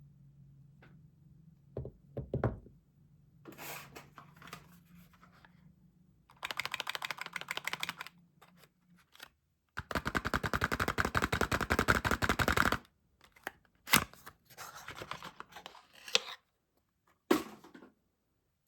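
Soap being unwrapped: its packaging crackles in several runs of fine rapid crinkling, the loudest lasting about three seconds, with a dull thump near the start and a few sharp taps later.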